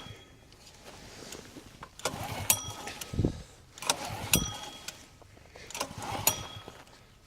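Recoil starter of a 3500-watt generator's Honda-clone engine pulled three times, about two seconds apart. Each pull cranks the engine with a clatter and a short metallic ring, but it does not catch: the engine is too cold to fire without ether.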